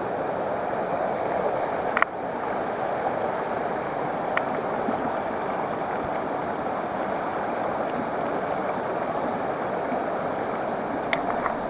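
Steady rush of flowing water from a waterfall and its stream, with a few faint clicks.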